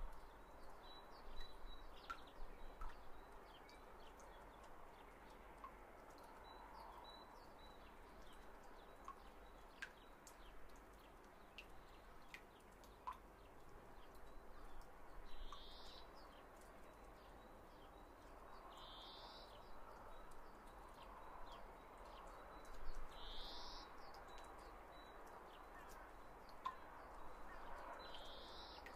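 Faint bird chirps over a quiet background hiss: a short, high, rising call repeats about every four seconds in the second half, with scattered soft clicks.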